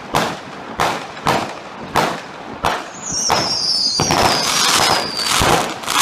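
Fireworks going off: a run of sharp bangs about every half second, then a high whistle sliding slowly down in pitch for about two seconds amid dense crackling, with two more bangs near the end.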